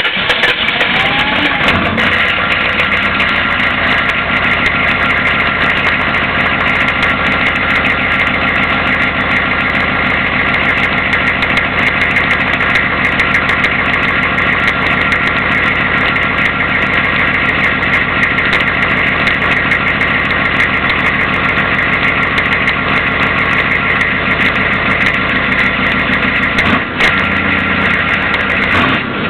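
A 6.5-litre turbo diesel V8 engine, just started, settles into a steady idle about two seconds in. There is one brief dip in the sound near the end.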